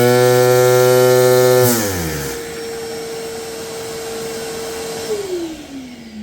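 LEGO vacuum engine with 3D-printed parts running at high revs with a steady pitched drone, then spinning down from about two seconds in as the pitch and level drop. A single whine holds on for a few seconds and then falls away near the end.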